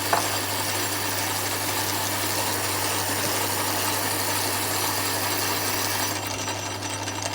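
Lathe running with a steady mechanical hum and hiss, with a short click just after the start. About six seconds in, the high hiss drops away and the sound gets slightly quieter.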